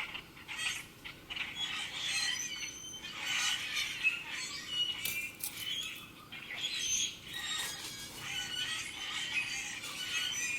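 Several small songbirds chirping and twittering, many short overlapping calls and whistles.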